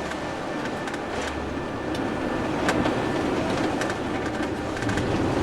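Road noise inside a moving car: a steady rumble of tyres and engine, with scattered small clicks and rattles.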